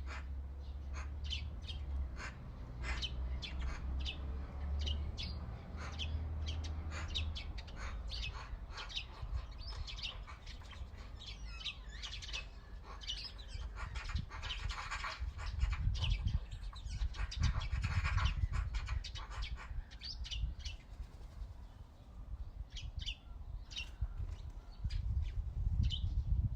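Backyard birds chirping and singing, many short calls overlapping, with a denser, louder stretch of song about midway. A low rumble runs underneath, steady for the first several seconds.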